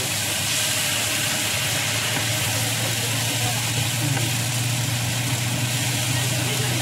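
Minced pork sizzling as it fries in a non-stick pan while being stirred. A steady low hum runs underneath.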